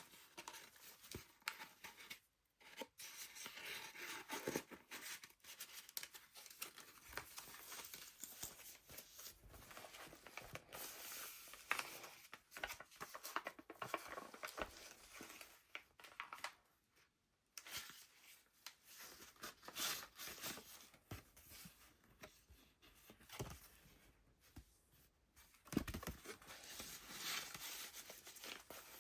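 Paper pages of a handmade junk journal being turned and handled: rustling and crinkling with small clicks, pausing briefly twice, and a soft thump near the end.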